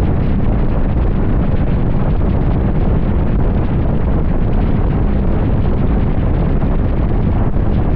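Wind buffeting the microphone of a motorcycle at highway speed: a loud, steady rush, heaviest in the low end.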